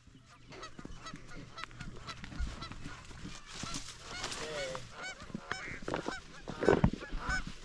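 Many short honking bird calls, like a flock of geese, repeating throughout. A few dull bumps, the loudest near the end.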